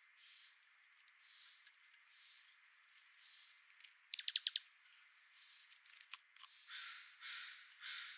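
Faint, harsh cawing calls of a corvid, repeated in a loose series and coming faster near the end. About four seconds in there is a louder, fast rattle of clicks.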